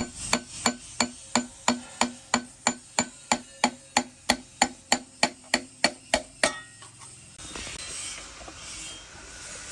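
Hammer striking metal in a steady rhythm, about three ringing blows a second, some twenty in all, stopping about six and a half seconds in.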